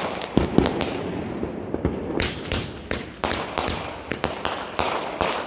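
A 500g consumer fireworks cake (Native Pyro Dead Cute) firing: quick clusters of sharp cracks and pops from small crackling bursts, thinning out briefly after about a second before picking up again twice.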